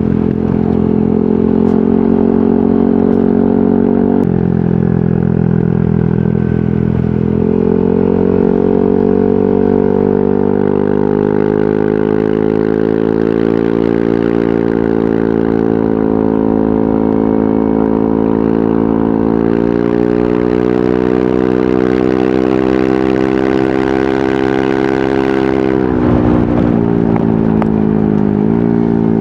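Yamaha NMAX 155 scooter's single-cylinder engine running through a VMAX Onyx aftermarket muffler, holding a steady, even note. The pitch steps up slightly a few times, then dips sharply and recovers near the end as the throttle is eased off and reopened.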